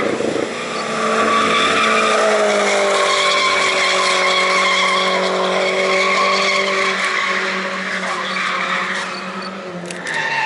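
Drift car engine held at high revs through a slide, its pitch sagging slowly over several seconds, with the tyres squealing and skidding on the track.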